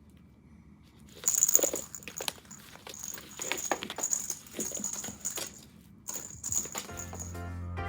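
A cat playing with a cat teaser toy: a run of rustles and light knocks from about a second in, with a faint high jingle coming and going. Music comes in near the end.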